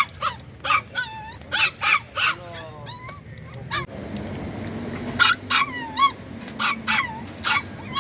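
Dogs barking and yelping repeatedly, with whining cries among the barks. A low steady hum comes in about halfway through.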